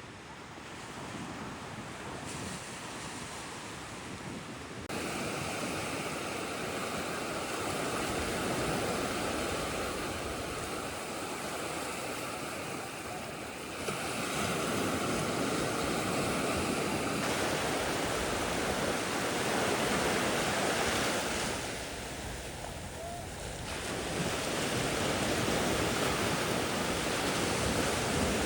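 Sea waves washing on the shore, a steady rushing that swells and ebbs, with wind blowing on the microphone. The sound changes suddenly several times, as at cuts between shots.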